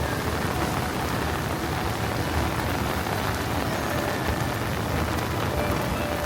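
Heavy thunderstorm rain falling steadily on the street, a dense even hiss.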